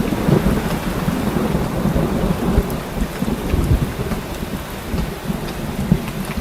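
Heavy rain pouring steadily, with a low rolling rumble of thunder beneath it and scattered drop ticks.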